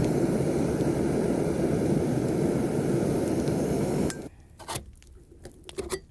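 Jetboil backpacking stove's gas burner running steadily, then shut off abruptly about four seconds in as the water reaches temperature; a few light clinks and scrapes of the cook cup being handled follow.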